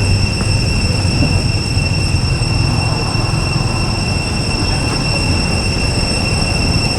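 Steady outdoor background noise: a continuous low rumble with a steady high-pitched drone on top.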